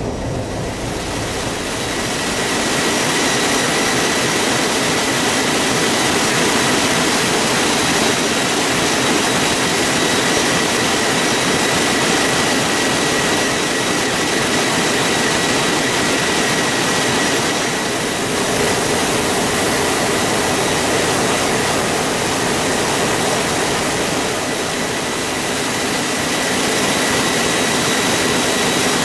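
Ship's engine room machinery running loud and steady: a dense mechanical noise with a steady high whine on top.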